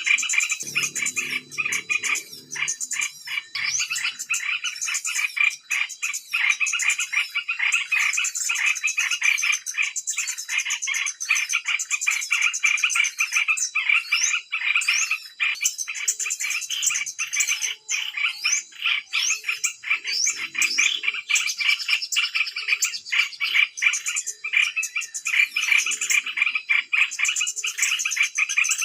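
Dense, unbroken twittering and chattering of many small birds calling at once, with quick rising chirps on top.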